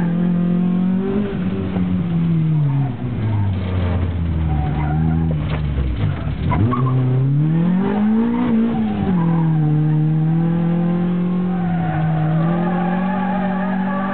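Rally car engine heard from inside the cabin. Its revs hold steady, then fall for about four seconds as the car slows. About six seconds in they climb again to a peak as it accelerates, then drop back to a steady note.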